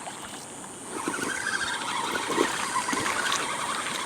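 Fishing reel being cranked to bring in a small hooked fish, a whirring whine that starts about a second in and wavers with the winding.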